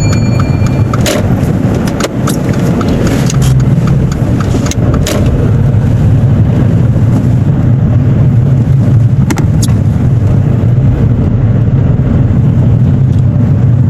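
Car being driven, a steady low engine and road drone, with a few faint clicks in the first few seconds.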